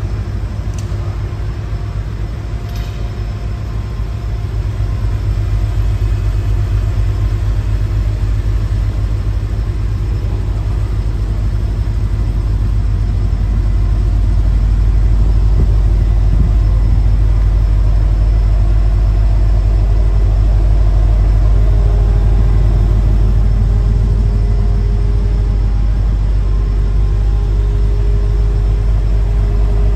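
Mercedes-AMG GT 4-door's engine idling, a steady low rumble.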